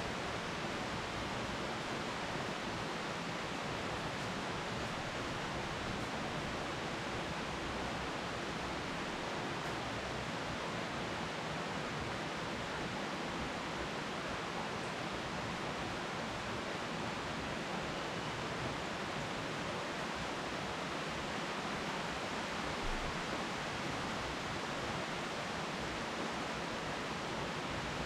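Steady rain falling on dense tree foliage, an even, unbroken hiss with no thunder heard.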